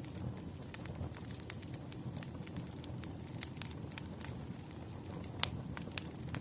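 Wood fire burning: a steady low rumble of flames with irregular sharp crackles and pops from the burning logs, one louder pop about five and a half seconds in.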